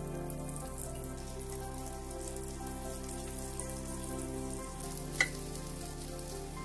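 Cornflour-coated tofu cubes frying in oil on a hot grill pan, a steady light sizzle, under background music of held chords. A single sharp click a little after five seconds in.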